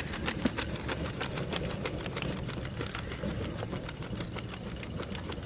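Campfire crackling: many small, irregular sharp pops over a steady low rumble.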